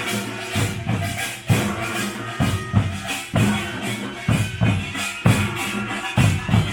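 Pungmul folk percussion band playing loudly: deep drum strokes about once or twice a second in a driving rhythm, with a dense, bright clatter of higher percussion over them.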